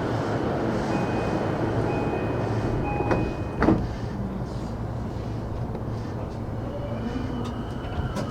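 Cabin sound inside an E233 series 8000 electric commuter train: a steady low rumble, with a thin high beeping tone in three short pieces a second or so in, and two sharp knocks about three and a half seconds in, the second one the loudest.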